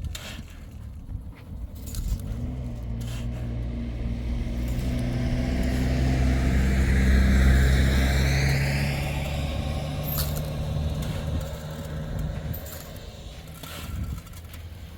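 A motor vehicle passes by: its engine hum swells for about five seconds, peaks, then fades away. A few sharp clicks sound at the start and near the end.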